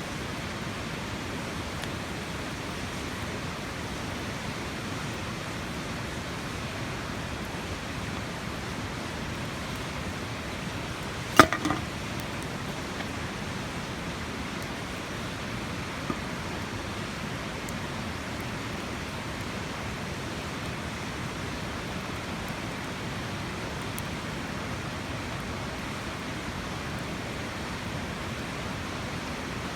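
A steady, even rushing noise with no rhythm, like flowing water or wind. About eleven seconds in there is one sharp knock or snap, followed closely by two smaller ones.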